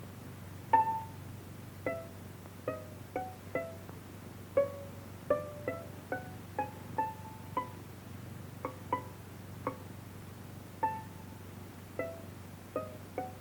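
Music of sparse plucked string notes, one or two a second at changing pitches, each struck sharply and dying away quickly, over a faint low hum.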